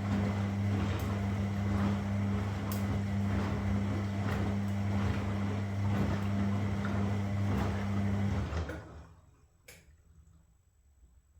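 Washing machine running with a steady hum and rushing water. It stops abruptly about eight and a half seconds in, followed by a single click.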